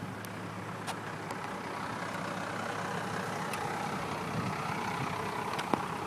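Motor vehicle engine running steadily, with a few faint clicks.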